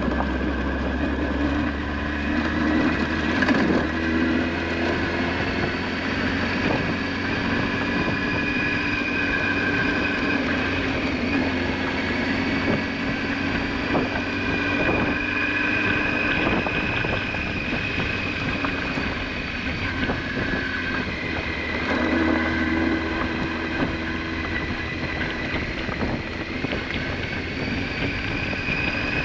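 Honda Hornet 900's inline-four engine running steadily while riding, its pitch drifting gently up and down with the throttle, with wind noise on the microphone.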